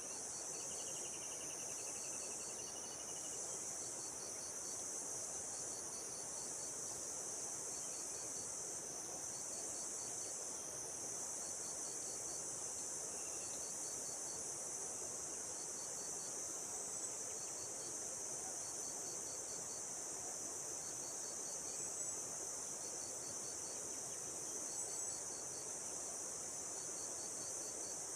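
Steady high-pitched insect chorus, with a chirp of a few quick pulses repeating every second or so. A short wavering trill is heard about a second in.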